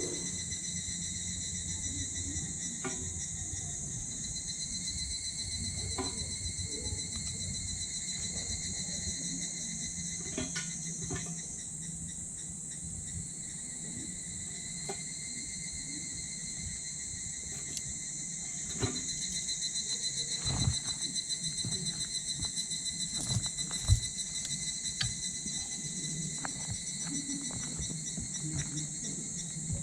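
Wood fire crackling in a small titanium wood stove, with scattered clicks and a few sharper pops, the loudest about two-thirds of the way in. Behind it runs a steady, high-pitched insect chorus.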